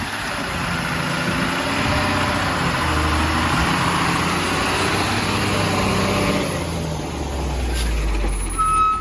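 Heavy diesel vehicle engine running, its pitch rising and falling, with a deep rumble building near the end and a short high beep just before it cuts off.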